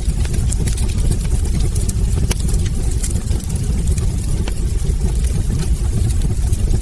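Wood fire burning in a fireplace: a steady low roar of flames with frequent sharp crackles and pops from the logs.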